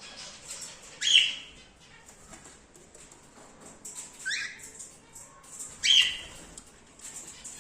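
Cockatiels calling: three short, loud squawks, about a second in, about four seconds in and near six seconds, with faint ticks between them.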